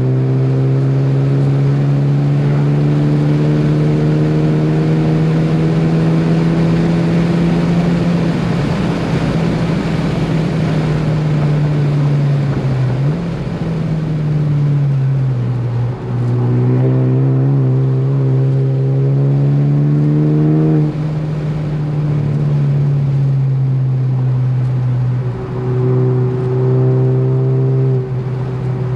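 Ford Focus ST engine driven hard on track. Its pitch climbs slowly for the first several seconds as it pulls through a gear, then sinks. It climbs again and falls away abruptly as the throttle is lifted just past the middle. Near the end come shorter pulls broken by quick dips.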